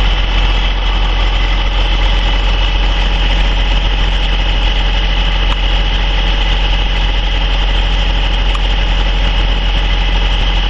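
Vehicle engine idling steadily: a constant deep hum with a steady high whine above it.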